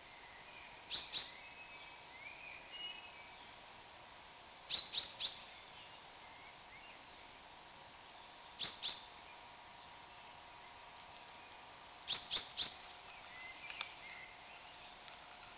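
A bird repeating a short call of two or three quick, sharp high notes about every four seconds, with fainter chirps in between.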